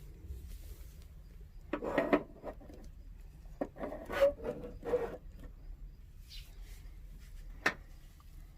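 Objects being handled: two short spells of rubbing and knocking, then a single sharp click near the end.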